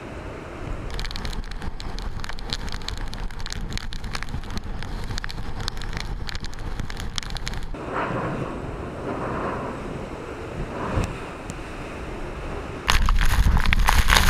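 Typhoon wind and rain, the wind buffeting the microphone. Crackling rain gives way to surging gusts, then a sudden, much louder blast of wind near the end.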